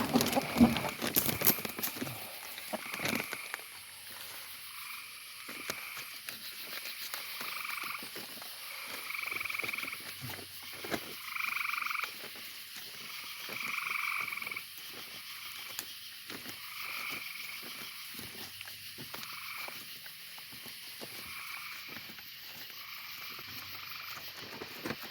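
Frogs calling in a chorus, short repeated calls every second or so, over a faint steady clicking.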